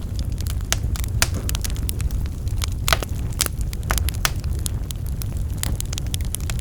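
Wood fire burning in a fireplace, with a steady low rumble and frequent irregular crackles and pops of burning logs.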